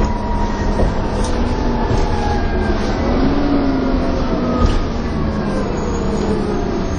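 Dennis Trident 2 double-decker bus heard from on board, its engine and driveline running with the whistling 'hoover' whine over a steady rumble. The whine slides slowly down in pitch over several seconds, with a short rise in a lower tone about halfway through.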